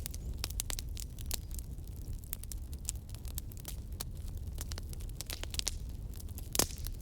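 Campfire burning with irregular sharp crackles and pops over a low steady rumble, one louder pop about six and a half seconds in.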